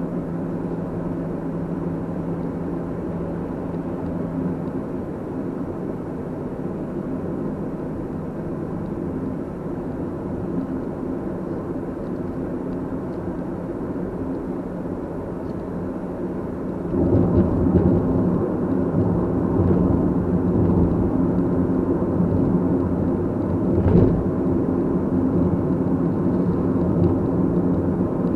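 Car driving: steady engine hum and road noise, which grow louder and rougher about 17 seconds in, with one short thump a little before the end.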